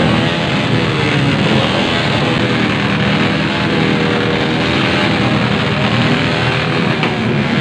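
Several motorcycles with loud aftermarket exhausts being revved hard together, engine pitch repeatedly rising and falling.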